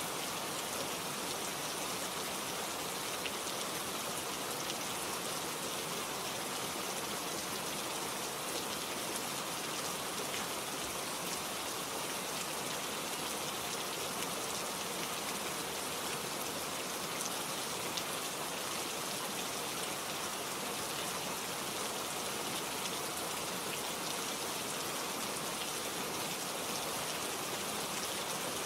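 Steady rain falling, with fine drops pattering on surfaces in an even, unbroken hiss.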